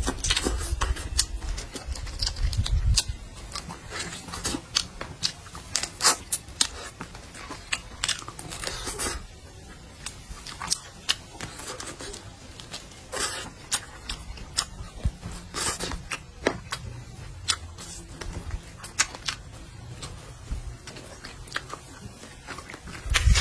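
Close-up eating sounds: a person chewing and biting into meat, with many scattered sharp crunchy clicks, heavier and thumpier in the first few seconds.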